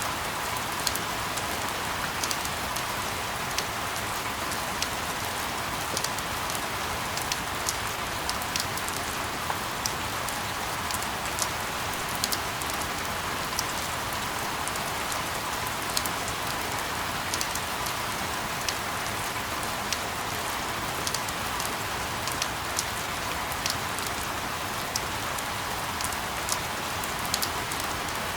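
Steady rain falling, an even hiss with many sharp drop ticks at irregular intervals.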